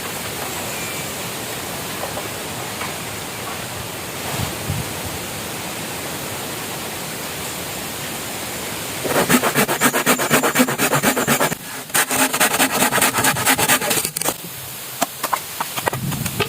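A steady rushing of water, then two runs of fast rasping strokes, each a couple of seconds long, from a hand tool working bamboo, followed by a few sharp knocks near the end.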